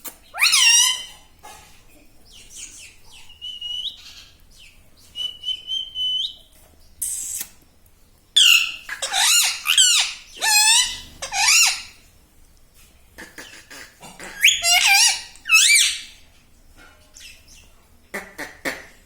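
Pet parrot calling in repeated bursts of high, squawking calls that bend in pitch, with a couple of short, steady whistles in between and brief pauses.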